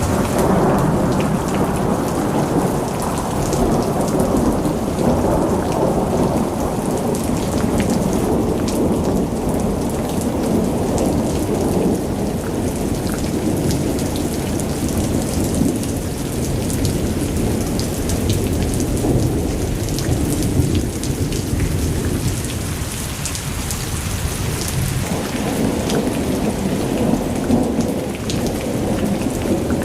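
Heavy rain falling steadily, with a deep rumble that swells and eases underneath and scattered sharp drop ticks above it.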